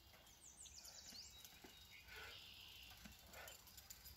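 Near silence: faint forest ambience, with a short, quick high-pitched bird trill about half a second in.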